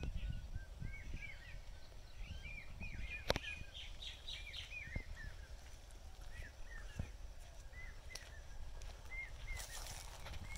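Small birds chirping repeatedly, many short arched calls one after another, over a low rumble. There is one sharp click about three seconds in.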